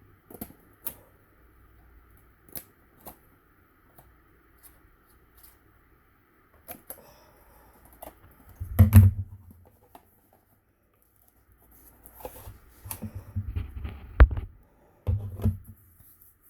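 Cardstock and a cardboard cracker box being handled, pressed and folded on a table: scattered light taps and paper rustles, with heavier bumps and rubbing about nine seconds in and again from about twelve seconds on.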